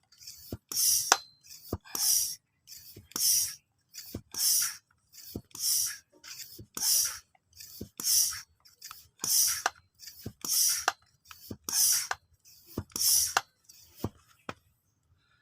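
Hand air pump being stroked to charge an airgun, each stroke a short hiss of air with a click, a little more than one stroke a second.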